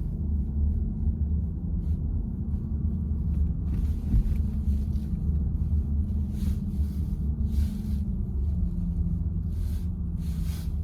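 Steady low road and tyre rumble inside the cabin of a VW ID.4 electric car while it is being driven, with a few brief faint swishes that come and go.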